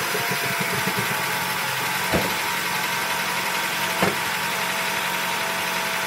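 Acura RSX's K20A3 four-cylinder engine running steadily, with two brief clicks about two and four seconds in.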